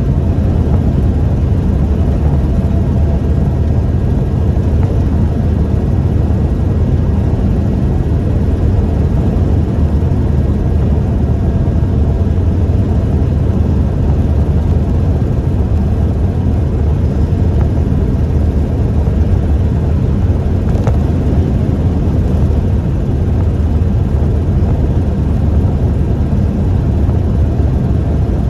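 1998 Toyota Tacoma 4WD pickup driving along, a steady low drone of engine and road noise.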